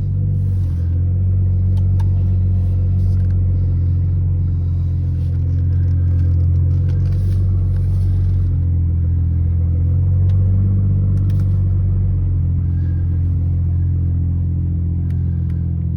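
BMW M240i's B58 turbocharged inline-six, its muffler deleted and fitted with Dynomax race bullet resonators, idling steadily with an even, low drone. It is heard from inside the cabin with the window down.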